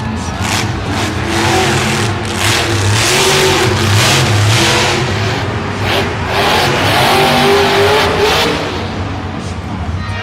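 Monster truck engine revving hard, its pitch climbing and dropping again and again.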